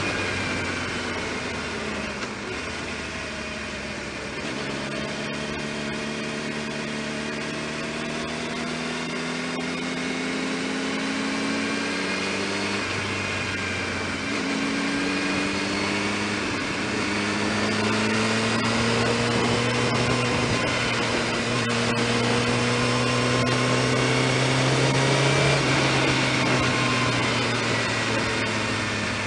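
Honda CBR600 F2's inline four-cylinder engine pulling under way, its note climbing slowly, dropping sharply about halfway through, then climbing again and holding before falling away near the end, over a steady rushing noise.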